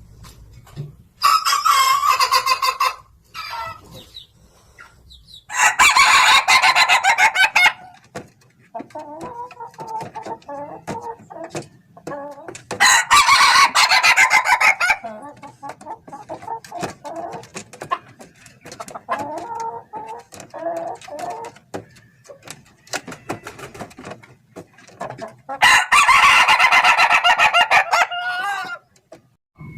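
Ayam Ketawa laughing roosters crowing: four loud, long crows, each about two to three seconds, with quieter broken calls between them.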